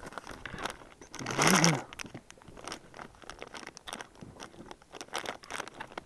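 Rummaging through a box of fishing lures: plastic clicks and crinkling rustles, with one louder, longer rustle about a second and a half in.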